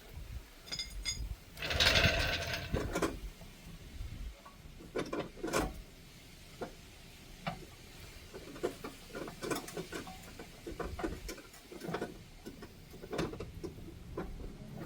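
Hand tools working on a car's front strut: irregular metallic clicks and clanks, with a louder scraping rush about two seconds in, as coil spring compressors are fitted and wound on.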